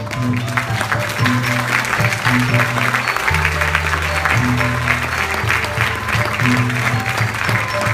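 Audience applause breaks out just after the start, over instrumental music with low sustained notes.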